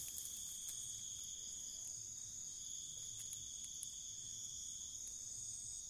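Steady high-pitched trilling of night insects, held at two constant pitches.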